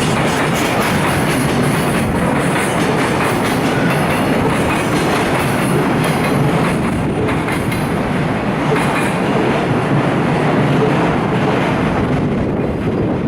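Freight train's container flatcars rolling past, wheels clacking over the rail joints in a steady, loud rattle; the higher rattle dies away near the end as the last cars go by.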